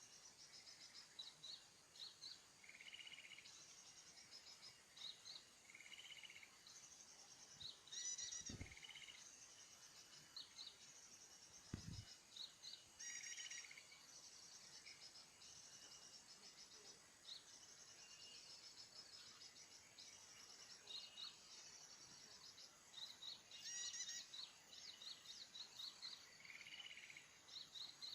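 Small birds chirping repeatedly in short, high, quick notes, over a faint steady insect drone. Two soft low knocks around eight and twelve seconds in.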